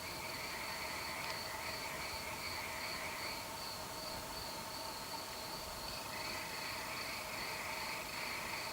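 Night chorus of crickets chirping: a steady pulsing chirp runs throughout, while a lower trill stops about three seconds in and starts again a few seconds before the end. Under it are two faint steady lower tones.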